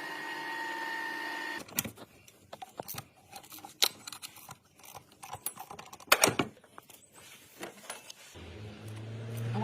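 A small electric motor whirs steadily for a second and a half and stops. Then come scattered clicks and a few sharper knocks of tools on metal parts. Near the end a lower, deeper motor hum starts and grows louder.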